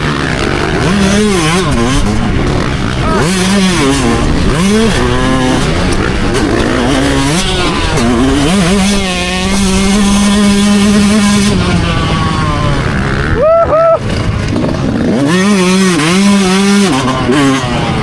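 Dirt bike engine revving hard, its pitch rising and falling again and again as the rider accelerates, shifts and backs off around a motocross track, with one longer steady pull in the middle.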